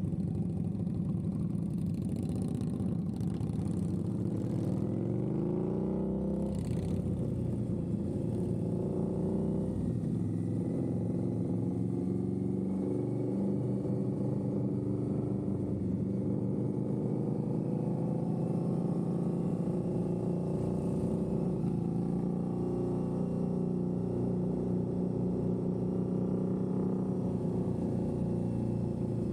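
Indian Scout V-twin motorcycle engine accelerating through the first few seconds from a rolling start, then running steadily at high speed.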